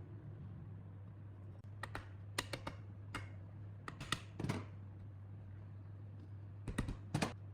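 Light clicks and taps of small hard parts being handled, in small clusters, over a steady low hum.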